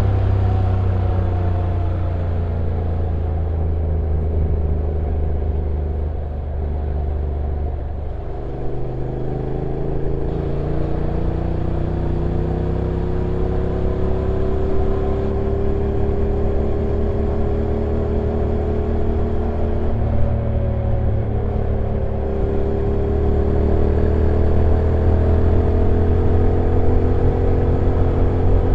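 Honda NC750X's 745 cc parallel-twin engine running on the move downhill, heard from on the bike; its pitch climbs slowly and steps about eight and twenty seconds in as the dual-clutch transmission changes gear.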